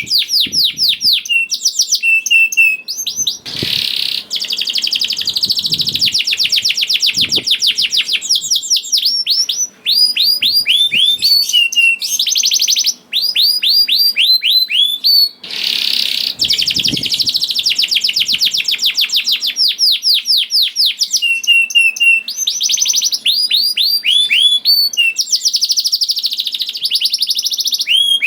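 Domestic canary singing without pause: fast rolling trills of repeated, quickly falling notes, switching every second or two to a new phrase, broken by a few short gaps.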